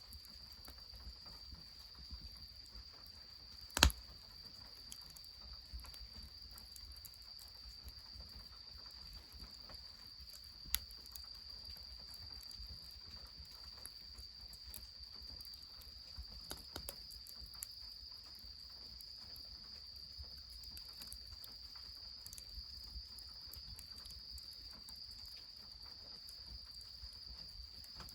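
Insects, crickets, chirring in one steady high-pitched trill, with a single loud sharp crack about four seconds in, a fainter one near eleven seconds, and a few light ticks later on.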